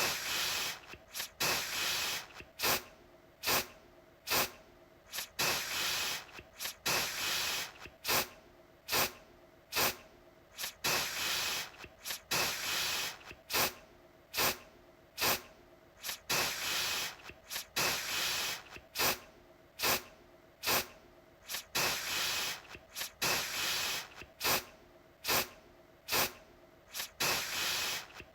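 Aerosol deodorant can sprayed again and again in hissing bursts, some brief puffs and some held for about a second, coming roughly once a second.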